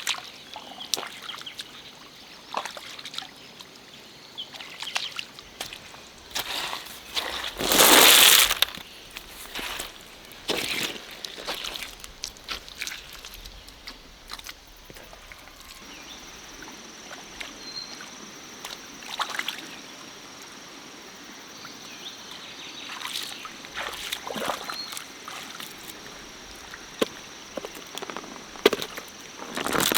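Stream water sloshing and splashing in irregular bursts, with one loud splash about eight seconds in, as of someone working by hand in a shallow forest stream. A thin, steady high tone joins about halfway through.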